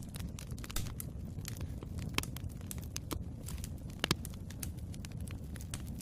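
Wood fire burning in a fireplace: a steady low rumble with irregular sharp crackles and pops, a couple of louder pops about two and four seconds in.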